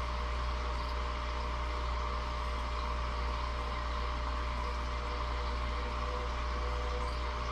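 Steady, unbroken droning hum with a strong low drone and a couple of faint steady higher tones, unchanging throughout.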